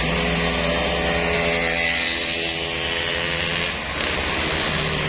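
A motor vehicle's engine running steadily, with a slight dip in loudness near the end.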